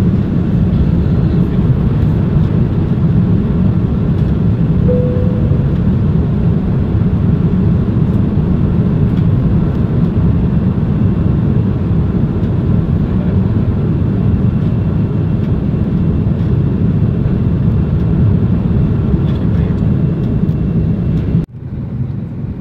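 Airbus A330 cabin noise: a loud, steady, low rumble of the twin jet engines and airflow. Near the end it drops suddenly to a quieter, thinner cabin hum.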